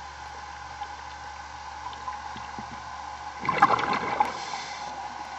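Underwater gurgling and bubbling over a steady low hum, with a louder crackling burst of bubbles lasting about a second, starting about three and a half seconds in.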